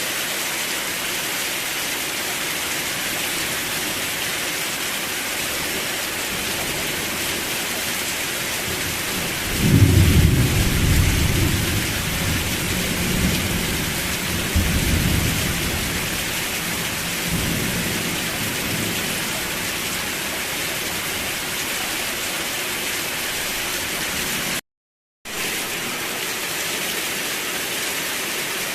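Steady rain hissing, with a low roll of thunder about a third of the way in that rumbles on for several seconds and fades. The sound cuts out completely for about half a second near the end.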